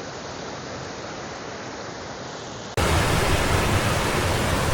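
Steady rushing water from a stream or small waterfall. A little under three seconds in it cuts suddenly to a louder, fuller rush.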